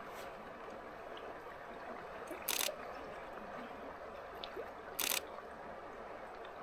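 Camera shutter firing twice, about two and a half seconds apart, over the steady rush of a stream.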